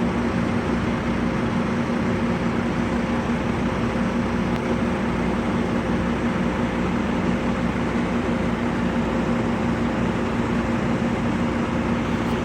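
Vehicle running steadily: a constant engine and road noise with a steady low hum that does not change.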